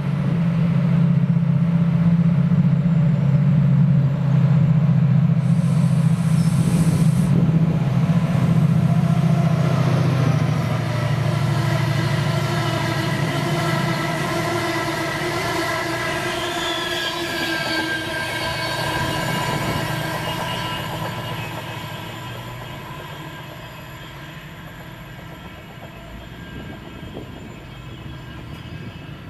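Diesel locomotive-hauled passenger train passing close by. Its locomotive engine gives a loud, steady low drone for the first ten seconds or so, then higher whining tones come from the coaches rolling past. The sound fades over the last several seconds as the train draws away.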